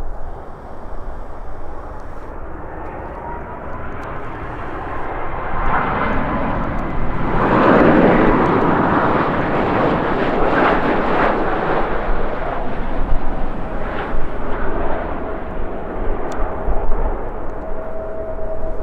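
Jet airliner passing close by: its engine noise swells to a peak about halfway through and then fades, with a faint whine as it approaches. Gusty wind rumbles on the microphone.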